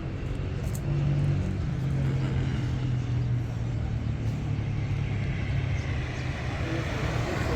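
A car's engine running with a steady low hum that shifts slightly in pitch, over road noise.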